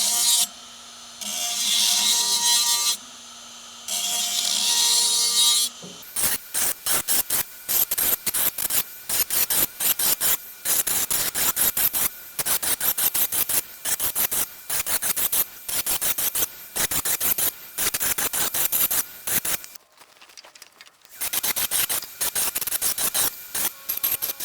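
A Dremel rotary tool with a small grinding stone sharpening the teeth of a sawmill band blade. It starts with three longer grinding passes, then goes to quick short touches on tooth after tooth at about two to three a second, with a brief pause near the end.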